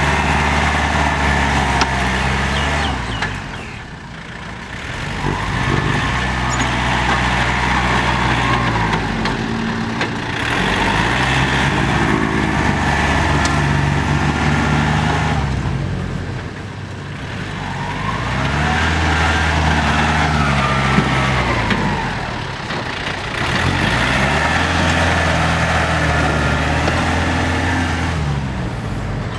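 Diesel farm tractor engines working under load while pushing soil, the engine note dropping and climbing back several times as the load comes and goes.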